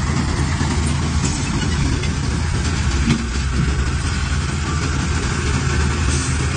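Heavy construction machine's engine running steadily with a low drone.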